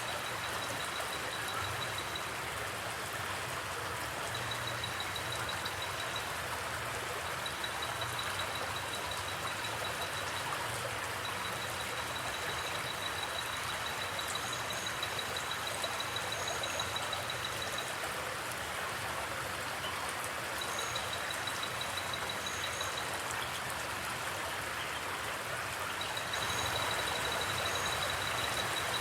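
Flowing river water: a steady rush, growing a little louder near the end. A high, fast-pulsing trill comes and goes in stretches of a few seconds, with faint short high chirps now and then.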